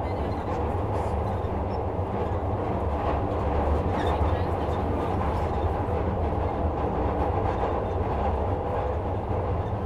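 Interior of a Metro-Cammell-built Glasgow Subway car running through the tunnel: a steady, deep rumble of wheels on rail and running gear, with no clear breaks or changes.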